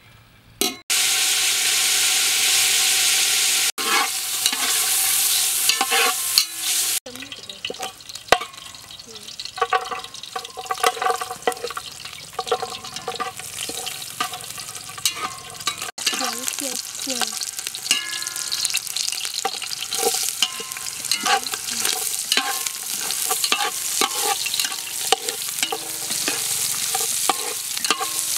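Chicken fat and sliced garlic frying in oil in an aluminium pot, sizzling, with a metal spatula scraping and clinking against the pot as it is stirred. A loud burst of sizzling starts about a second in and lasts a few seconds.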